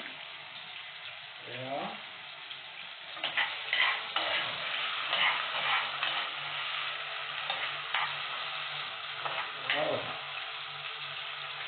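Seasoning of onions, tomatoes, scallion and thyme sizzling in hot oil in a pot, with stirring scrapes against the pot from about three seconds in.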